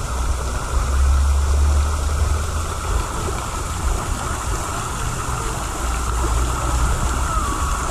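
Steady rush of running and splashing water from the water park's pools and features, with wind rumbling on the microphone, heaviest about a second in and again near the end.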